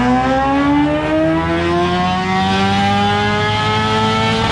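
A vehicle engine pulling steadily higher in revs under load, one smoothly rising note. It breaks off right at the end.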